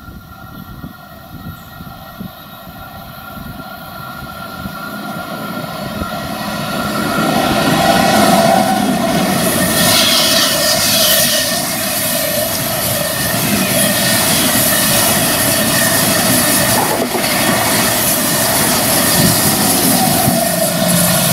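Electric passenger train passing close by. The sound builds over the first several seconds to a loud, steady rushing rumble, with a steady whining tone on top.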